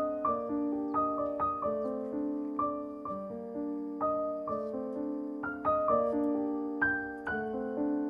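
Background piano music: soft notes struck one after another over held chords, each note dying away slowly.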